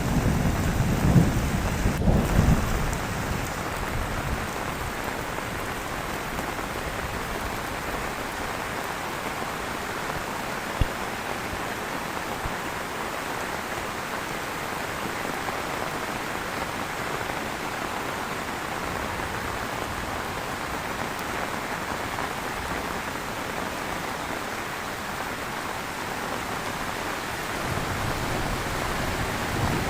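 Heavy rain falling steadily in a thunderstorm, a dense even hiss, with a low thunder rumble fading out in the first couple of seconds and building again near the end.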